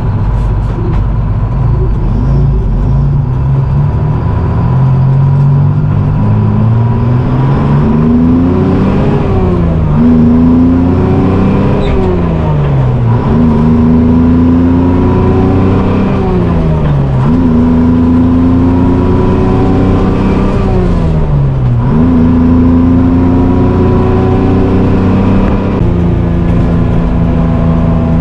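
Detroit Diesel two-stroke engine of a GMC Crackerbox cabover semi pulling hard under load, revving up and dropping sharply about four times as it is shifted up through the gears, then running steadier. A steady high whine runs alongside.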